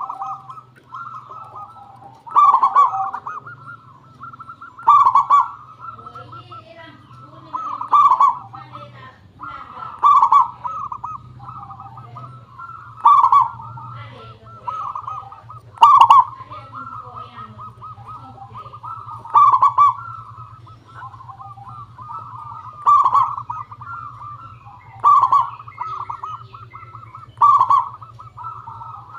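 Zebra doves (perkutut) cooing: a loud, crisp trilling coo phrase comes about every two and a half to three seconds, over continuous softer cooing from other birds. A low steady hum runs underneath.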